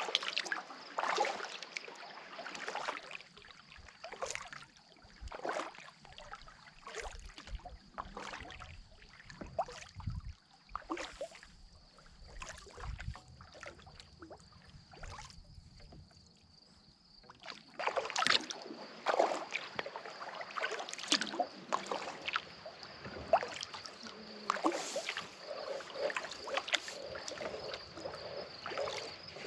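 Kayak paddle strokes: the blades dipping and splashing in the water, with drips between strokes, in an irregular rhythm that thins out for a few seconds in the middle and picks up again just past halfway.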